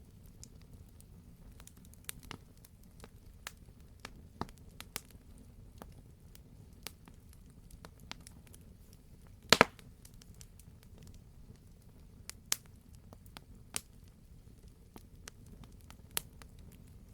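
Wood fire crackling, with a low steady hiss and scattered irregular pops. The loudest is a sharp double pop about halfway through, with smaller ones near the end.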